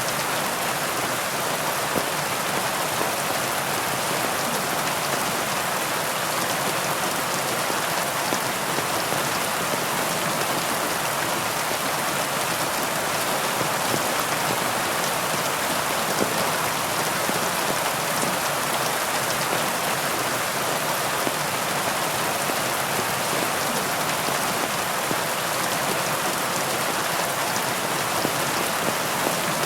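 Heavy rain falling steadily, a dense even hiss of drops with fine individual drop ticks.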